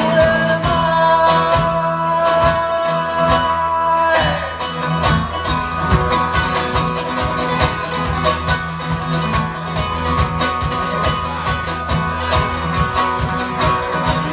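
Bluegrass-style band music with plucked guitar and banjo and no lyrics. A long held note carries the first few seconds and slides down about four seconds in, then the picking goes on briskly.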